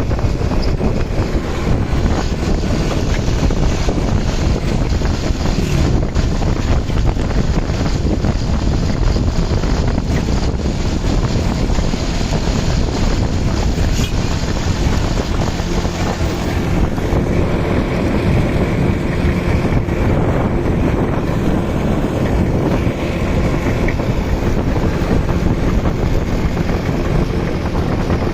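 Motorbike engine running steadily while riding, heavily overlaid by wind buffeting on the microphone. A faint steady engine hum stands out a little more in the second half.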